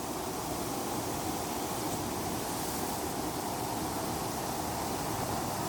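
Swift, fast-flowing stream water below a dam, rushing steadily.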